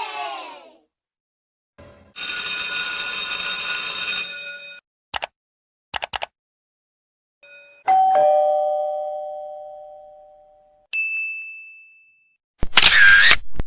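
A string of separate sound effects: a sustained ringing tone with many overtones, a few short clicks, then a two-note ding-dong doorbell chime, high note then low, dying away slowly about eight seconds in. A short high ding follows, and a loud brief effect with a bending pitch comes near the end.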